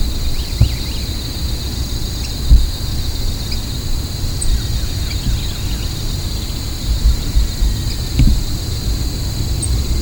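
Insects trilling in a steady high-pitched chorus, over a low rumble of wind on the microphone with a few louder gusts.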